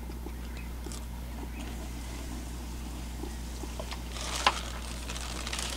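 Battered fish frying in a pan of hot oil, sizzling from about four seconds in, with one sharp click. Under it a low, steady motor hum runs throughout.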